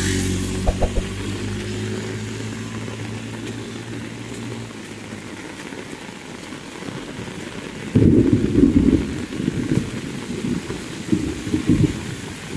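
Heavy rain falling steadily on a road and vegetation. A low steady drone fades out about five seconds in, and from about eight seconds in low rumbling surges come and go.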